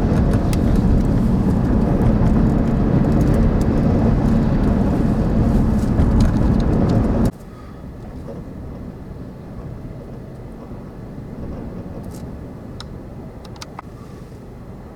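Extreme wind blowing, loud and rushing with heavy low rumble on the microphone. About seven seconds in it cuts off abruptly to a much quieter steady rush with a few faint clicks.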